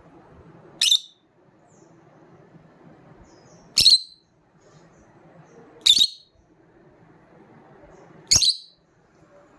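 Lovebird giving four loud, short, shrill calls, spaced a couple of seconds apart, over a faint low murmur.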